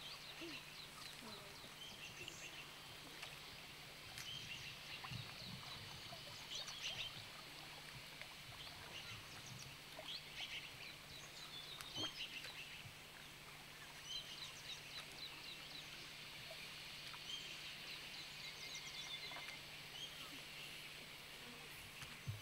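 Faint bird calls: short high chirps and trills, again and again, over a low steady hum.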